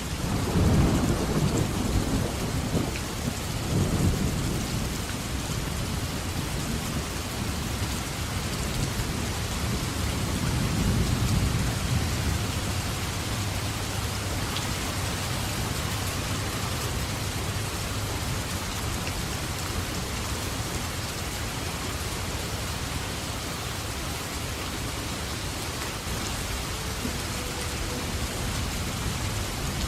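Thunderstorm: steady rain with rolling thunder, a low rumble just after the start that swells again about four seconds in, and another around eleven seconds.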